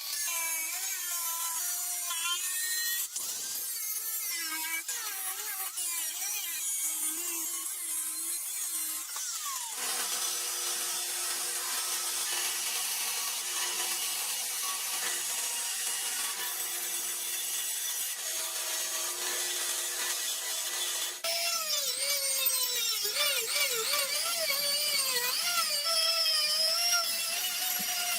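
Electric grinder working the steel of an old saw blade, with a harsh grinding hiss. Its motor tone dips and recovers as the blade is pressed in. About ten seconds in, the tone holds steady for a while, then dips and recovers again and grows slightly louder.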